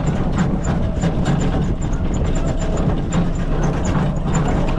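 Small utility vehicle or ATV engine running steadily while driving slowly, with scattered knocks and rattles.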